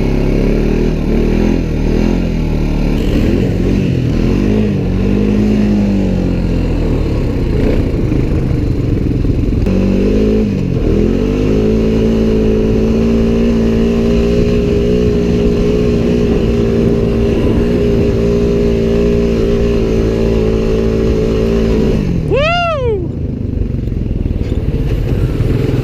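Honda Pioneer side-by-side's engine running under throttle while driving. The pitch wavers up and down, dips and climbs about ten seconds in, holds steady for about ten seconds, then jumps in a quick rev and drops near the end.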